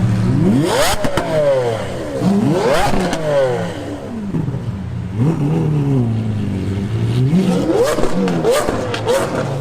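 Exotic sports car engine revved hard several times from idle, each rev a sharp rise and fall in pitch, with a run of quick blips near the end and sharp cracks at the peaks of the revs.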